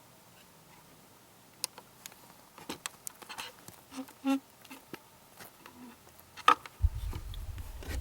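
Scattered light clicks and taps, with a short pitched blip near the middle. A low hum comes in near the end.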